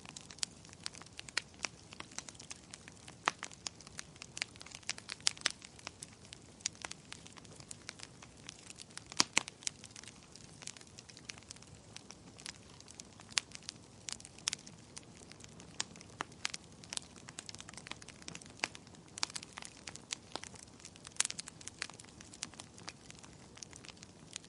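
Wood fire crackling: irregular sharp pops and snaps, a few much louder than the rest, over a faint low hiss.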